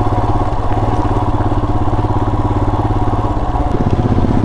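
Royal Enfield Himalayan's 411 cc single-cylinder engine running with an even, rapid pulse, its note shifting near the end.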